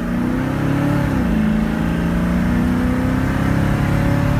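A fuel-injected 347 stroker small-block V8 in a 1968 Mustang accelerating, heard from inside the cabin. The engine note climbs, drops about a second in as it shifts up, then climbs slowly again and drops with another shift near the end.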